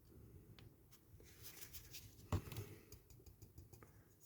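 Quiet handling noises at a workbench: faint clicks and light scratching, with one sharp knock a little over two seconds in.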